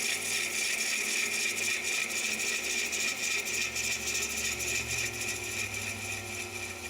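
A tool cutting a wooden handle as it spins on a lathe: a steady scraping hiss with a high whine that eases off near the end.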